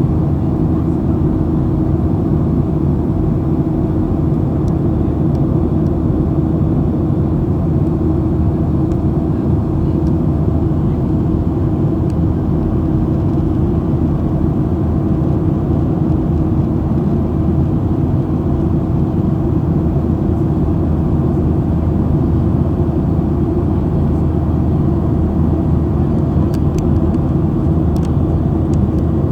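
Steady drone of a Boeing 737 heard from inside the cabin: engine and airflow noise with a constant low hum and no change in level.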